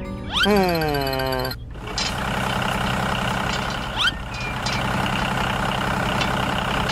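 A pitched tone sliding down in pitch for about a second, then a heavy vehicle engine running steadily, with a short rising sweep about four seconds in.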